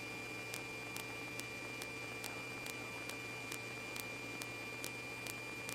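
Faint steady hiss and hum of the radio recording between transmissions, with a thin steady high tone and faint ticks about twice a second.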